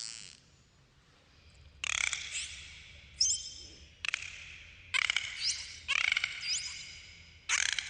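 Dolphins calling: bursts of rapid clicks and buzzing pulses roughly once a second from about two seconds in, with several short rising whistles among them.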